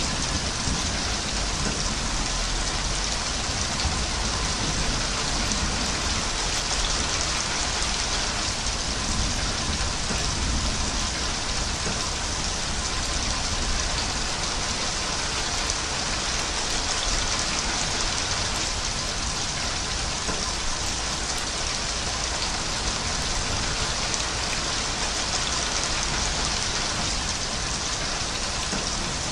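Steady rain falling, an even hiss without breaks or changes in level.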